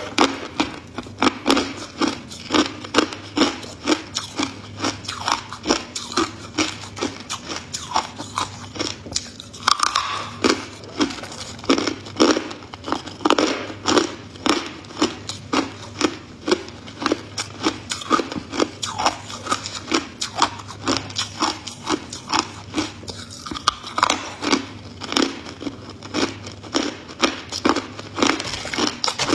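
Ice being bitten and chewed close to the microphone: a rapid run of sharp, crunching bites, about two to three a second.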